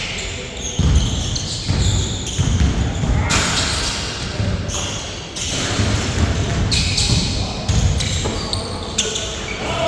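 Basketball bouncing on an indoor court floor, repeated irregular thuds echoing in a large hall during play.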